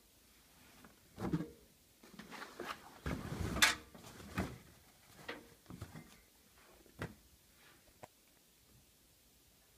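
Scattered knocks and clicks from a Siemens iQ700 front-loading washing machine, the loudest a sharp click about three and a half seconds in.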